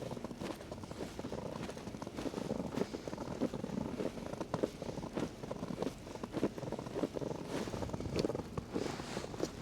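Footsteps walking through fresh snow at a steady pace.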